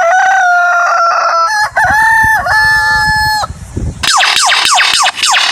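A rooster crowing, a long held cock-a-doodle-doo in drawn-out notes. From about four seconds in it gives way to a quick run of high, falling whistles.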